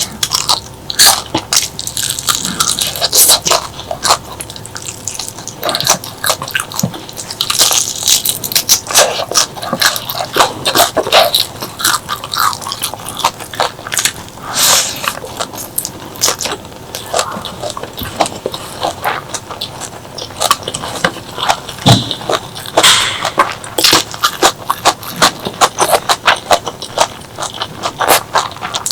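Close-miked eating: a person biting and chewing food, with many quick irregular crunches and mouth clicks.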